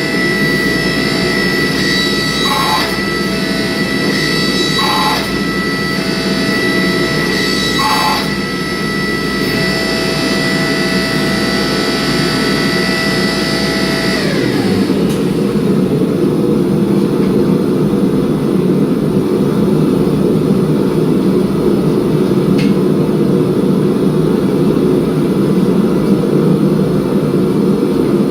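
A forge runs with a steady, loud roar. For the first half a machine's whine rides over it, then winds down in pitch and stops about halfway through, like a motor switched off and spinning down. A few short knocks come in the first several seconds.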